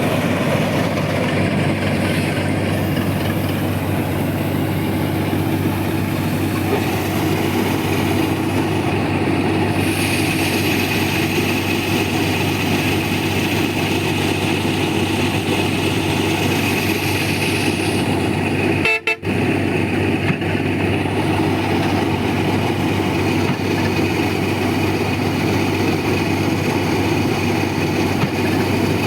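KS 9300 combine harvester running steadily, an even engine drone with a high whine that strengthens for several seconds around the middle. The sound cuts out for a split second a little past the halfway point.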